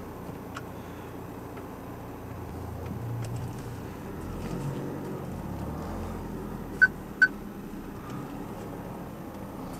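Mercedes C220 CDI's four-cylinder diesel engine idling, heard from inside the cabin, with the hum swelling a little midway. About seven seconds in, two short high beeps sound, typical of the car's parking sensor warning.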